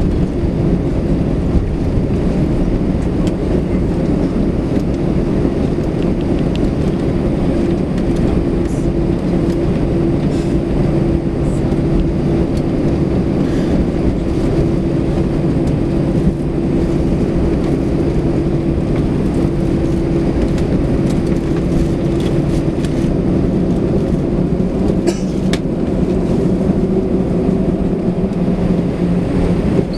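Airbus A320 cabin noise while taxiing after landing: the steady drone and rumble of the twin-jet airliner, with a low hum that changes pitch about 24 seconds in.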